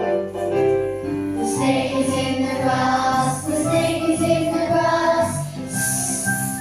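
Children's song with a sung melody over backing music and a steady beat.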